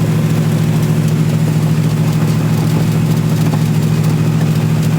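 Mark III Astra van with twin Saab engines idling steadily, a low even engine drone that holds one pitch throughout.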